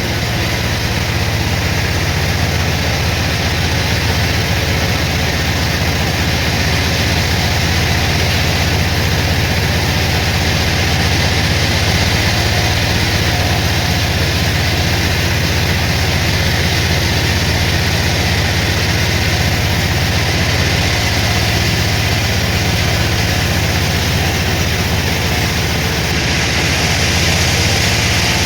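Sawmill machinery running steadily: a low, even engine-like hum under a constant hiss, with no cut starting or stopping.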